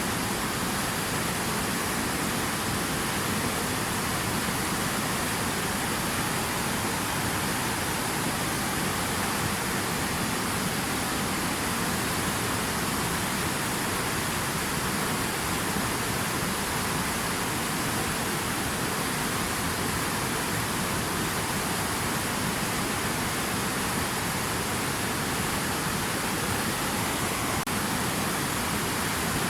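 Water rushing steadily, an even hiss that does not change.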